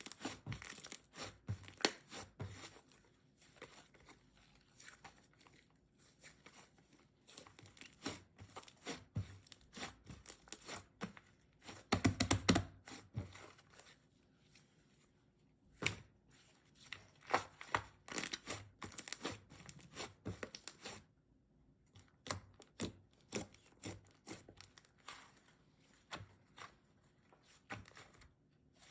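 Slime being played with by hand: irregular sticky crackles and clicking pops, with a louder burst about twelve seconds in and a short pause later on.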